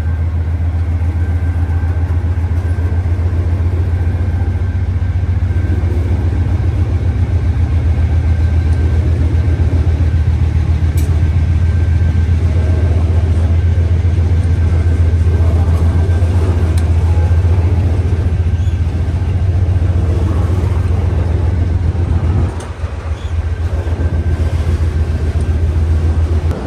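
Freight train's diesel locomotive engine running with a steady deep rumble and a faint high tone over it, the rumble dipping briefly about 22 seconds in.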